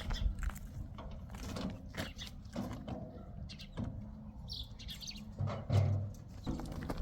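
Small birds chirping now and then over scattered knocks and a low rumble.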